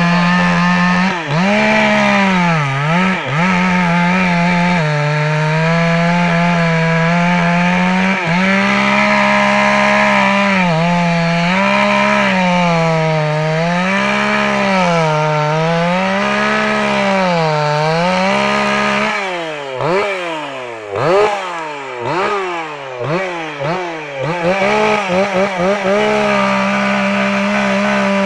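Two-stroke chainsaw at full throttle cutting into a tree, its pitch sagging and recovering in slow, regular swells as the chain bites into the wood. About two-thirds of the way through, the throttle is let off and blipped several times in quick succession, then held wide open again near the end.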